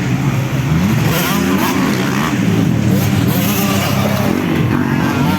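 Several 250cc motocross bikes racing, their engines revving up and down with overlapping rising and falling pitches.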